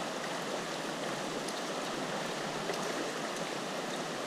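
Steady rush of river water flowing over stones.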